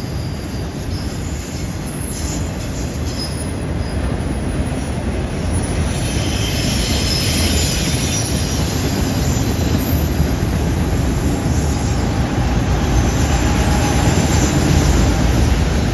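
Freight train cars rolling past with a steady rumble, their wheels squealing faintly and intermittently as they take a curve.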